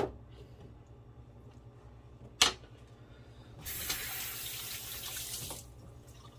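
Two sharp knocks about two and a half seconds apart, then a kitchen faucet runs for about two seconds and is shut off.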